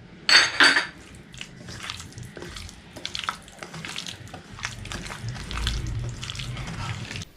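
Two sharp clinks of a utensil against a bowl, then chicken being mixed into its spice and yoghurt marinade, with scattered light clicks and scrapes.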